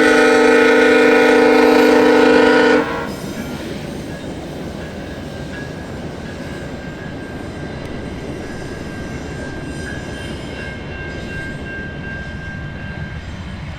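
Diesel locomotive horn sounding one long chord for nearly three seconds and cutting off sharply, followed by a train rolling past with a steady rumble of wheels on rail and a faint thin high whine.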